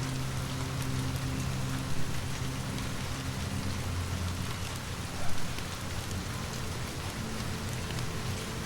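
Steady rain falling, an even patter of drops, over a low steady drone. Two sharper pops stand out, about two seconds and five seconds in.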